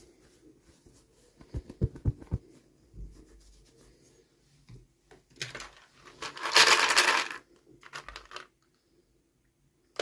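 Small plastic toy pieces and packaging being handled: a few light clicks and taps, then a louder scratchy rustle lasting about a second just past the middle, followed by a few brief scrapes.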